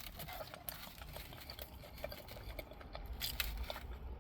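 Faint chewing and mouth noises with small soft clicks, from a person eating a big mouthful of eggs Benedict on an English muffin.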